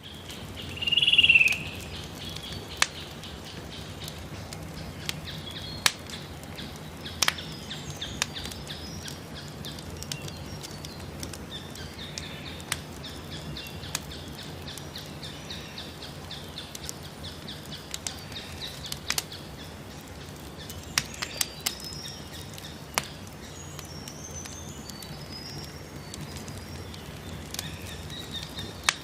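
Campfire crackling, with sharp pops every few seconds over a steady low outdoor background, while birds chirp; one loud short bird call about a second in.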